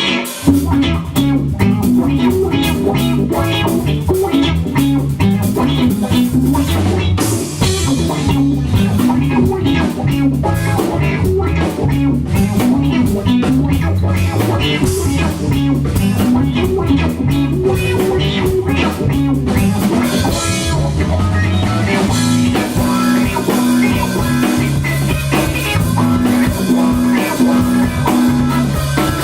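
Live band playing a funk instrumental: electric guitar, bass guitar and drum kit with a busy, syncopated bass line. About two-thirds of the way through, the drums thin out and the band settles into a repeating guitar riff.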